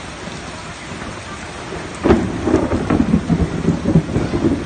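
Steady rain falling, then about two seconds in a sudden loud, low rumble that keeps surging and fading.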